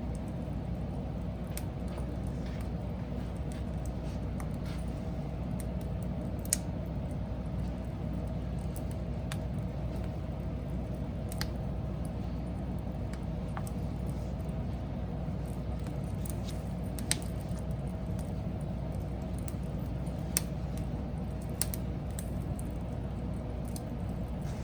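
Wood fire burning with a steady low rush, broken by scattered sharp crackles and pops from the burning wood, about ten in all. The strongest come about six and a half, seventeen and twenty seconds in.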